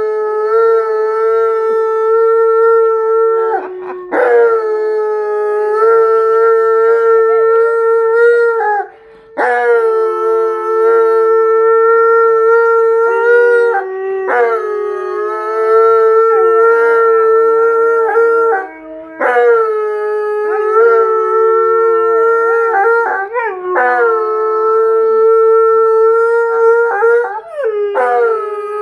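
An Alaskan malamute and a blue bay shepherd howling together in long, held howls at two slightly different pitches that overlap. The howls break off and start again about every five seconds.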